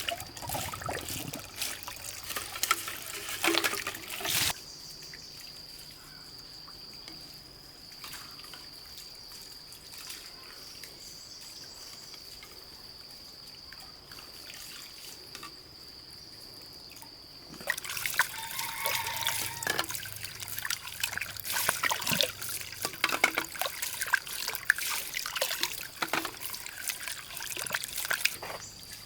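Water trickling and splashing, with irregular clatter, busiest at the start and again over the last ten seconds. A steady high thin tone runs through the quieter middle stretch.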